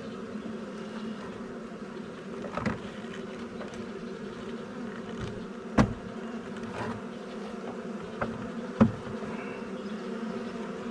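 A mass of honeybees from a freshly hived swarm buzzing steadily, with a few sharp knocks as the wooden frames are handled. The two loudest knocks come about halfway through and some three seconds later.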